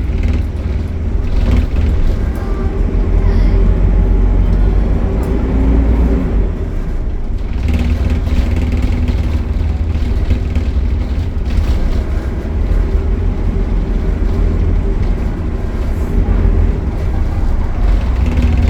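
Optare Solo single-decker bus running on the road, a continuous low engine and drivetrain rumble whose note shifts several times as it speeds up and eases off.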